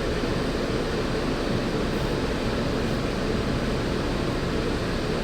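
Walt Disney World monorail in motion, heard from inside the car: a steady, even running rumble and hum.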